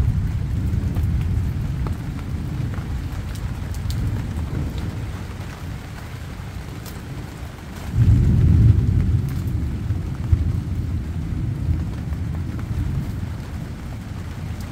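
Light rain pattering on banana plants over a steady low rumble; the rumble swells suddenly about eight seconds in.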